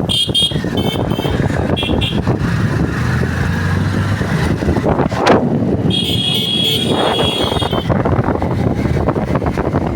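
Road traffic: a steady rumble of engines and tyres, with vehicle horns honking. There are several short toots in the first two seconds, a rush of a vehicle passing at about five seconds, and one long horn blast from about six to eight seconds in.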